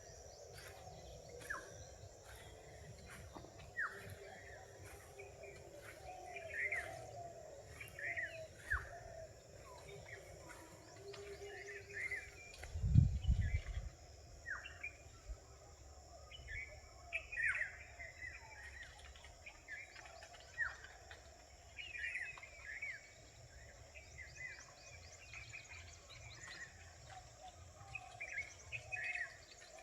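Forest birds calling with many short, sharp, down-slurred chirps scattered throughout, over a steady high hiss. A single brief low thump about 13 seconds in is the loudest sound.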